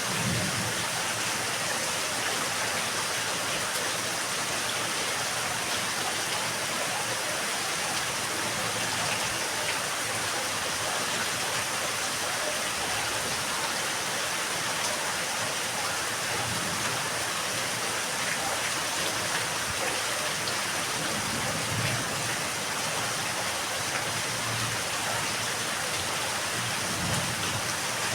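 Steady rain falling in a yard, an even hiss of drops on surfaces, with a few brief low swells.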